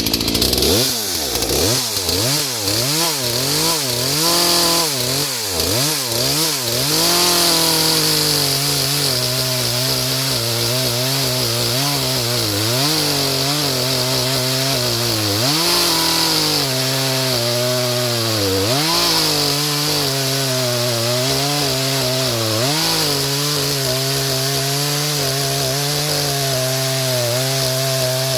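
Two-stroke chainsaw revved in quick blips for the first several seconds, then held at high speed while cutting wood, its pitch sagging under load and climbing back several times.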